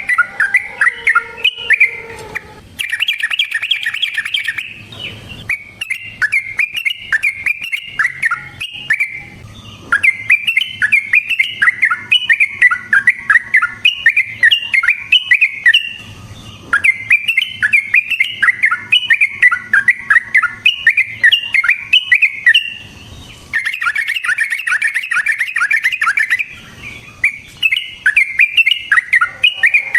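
Yellow-vented bulbul (trucukan) singing a fast, rolling chatter of bubbly notes in long runs, broken by short pauses every few seconds.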